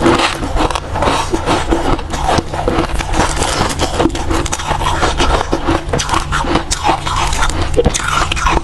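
White ice being bitten and chewed close to the microphone: a dense, irregular run of crunches and crackles.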